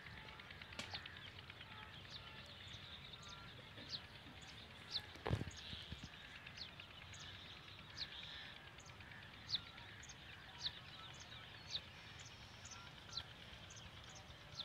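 Birds calling: a string of short, high chirps that drop in pitch, repeated every second or so. There is a single knock about five seconds in.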